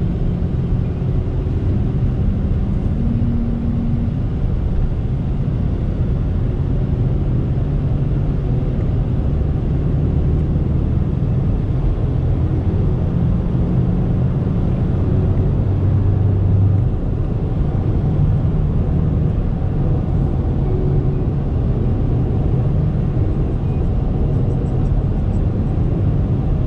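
Chevrolet S10's 2.8-litre four-cylinder turbo diesel running under way, heard from inside the cab as a steady low drone over tyre and road rumble, its pitch drifting up and down a little with speed.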